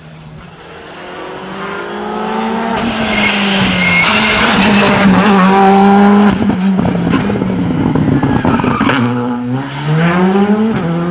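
Rally car engine growing louder as the car approaches at speed, loudest about four to six seconds in, with its pitch stepping between gears; near nine seconds the revs drop, then climb again as it accelerates away.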